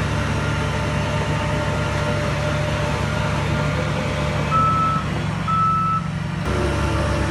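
Heavy diesel machinery engine running steadily, with a reversing alarm giving two high beeps about four and a half seconds in. The engine sound changes abruptly near the end.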